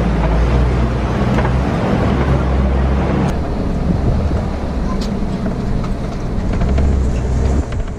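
Safari ride truck running steadily, a low engine drone with the rumble of the ride, heard from on board.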